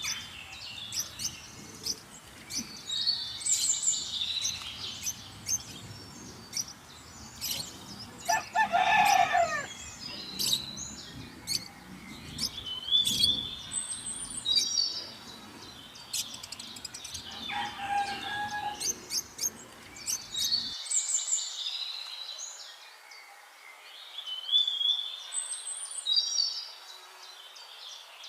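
Songbirds chirping and singing short repeated phrases throughout. A bigger bird gives a longer, lower call about eight seconds in, and a fainter one near the middle.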